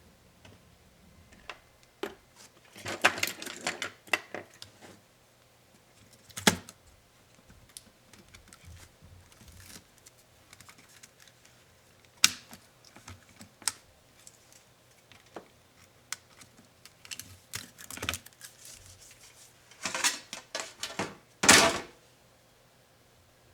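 Irregular clicks, taps and short plastic clatters from an Acer Chromebook Spin 11 laptop being taken apart by hand with small tools, with a few louder bursts of rattling handling.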